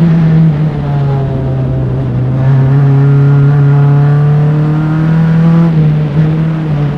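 Single-seater race car's engine, picked up by engine-mounted mics, running hard under load. Its pitch climbs slowly over a few seconds, then drops sharply about six seconds in at a gear change.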